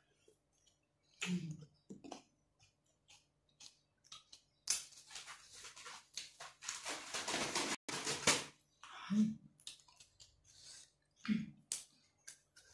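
Close-miked eating: chewing and mouth clicks, with a few short low 'mm' sounds. About five seconds in there is a loud rustling noise lasting about three and a half seconds.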